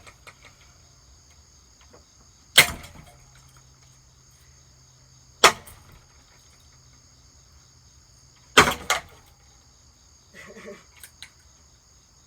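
Hammer blows striking a Hampton Bay ceiling fan: three sharp impacts about three seconds apart, the last one doubled. Crickets chirr steadily underneath.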